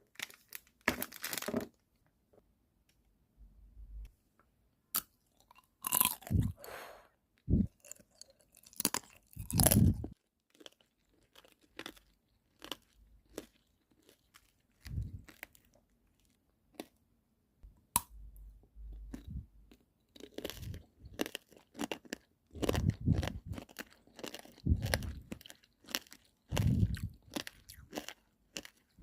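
Tanghulu being bitten and chewed: the hard candied sugar shell cracking and crunching in irregular bites, louder in bursts. Now and then a low rumble of wind on the microphone.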